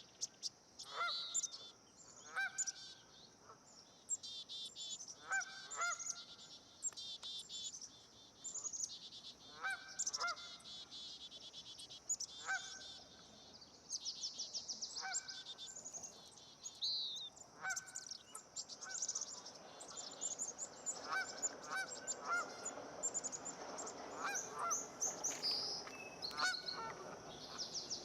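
Wild birds calling: dense high chirps and fast trills, with short nasal honk-like calls repeated every couple of seconds.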